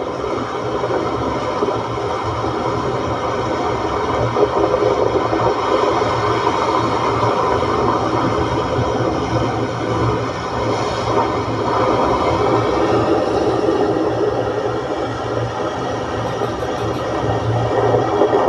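Moderate sea with waves of one to two metres washing against the shore, a loud, steady roar without pauses.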